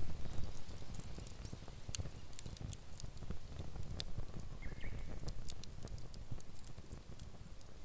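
Wood campfire crackling, with sharp scattered pops over a low steady rumble; a brief faint chirp near the middle.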